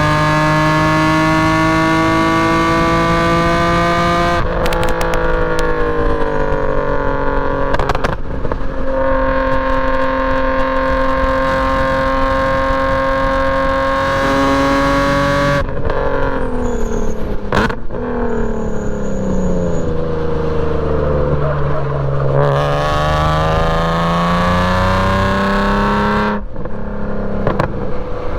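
BMW E46 M3's S54 inline-six with a straight-piped exhaust, driven hard on a race track. Its pitch climbs steadily through the gears, then breaks and drops at each shift, several times over. Around the middle it falls away for a long stretch before climbing again.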